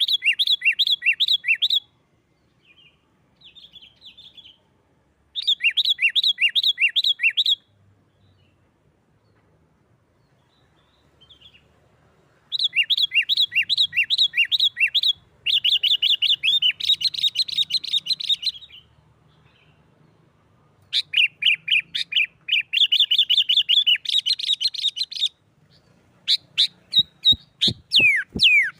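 Sooty-headed bulbul (kutilang) calling in excited bouts of fast, repeated chirps, each bout two to four seconds long with pauses between. Near the end it gives a run of separate falling notes. This is the agitated, fight-style calling used to provoke other bulbuls into calling.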